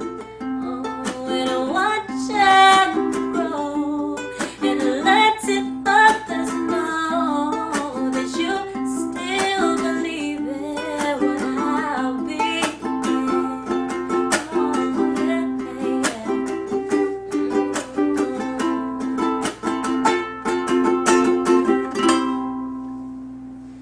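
Ukulele strummed in a quick, even rhythm of chords, finishing on a last chord that rings out and fades near the end.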